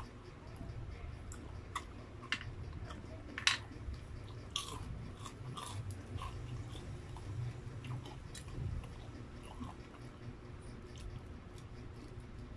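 Close-up chewing and biting of battered, deep-fried chicken proben (chicken proventriculus), with sharp crunches scattered through and the loudest crunch about three and a half seconds in.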